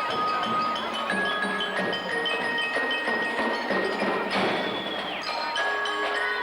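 A band playing: a held melody over percussion.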